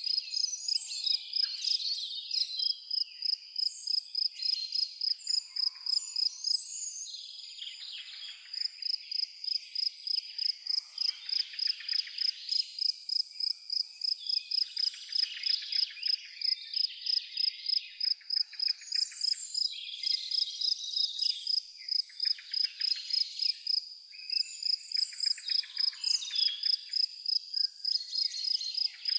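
An insect chirping steadily on one high note, a few chirps a second without a break, while birds call irregularly over it.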